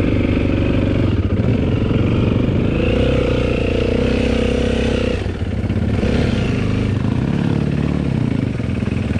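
Dirt bike engine running and revving, its pitch climbing and then dropping.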